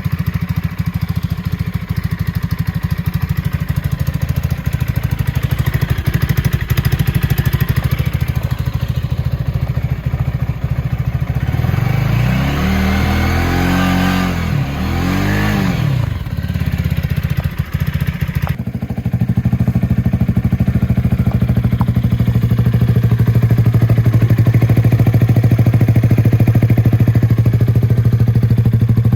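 Vitacci XMT 250 motorcycle engine running through an Akrapovic slip-on muffler: a steady exhaust note, with the revs rising and falling twice around the middle, then a louder steady drone for the last third.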